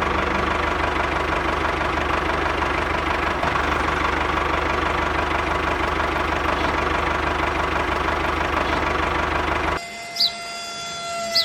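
Small engine running steadily at idle with a rapid knocking beat, cutting off suddenly near the end.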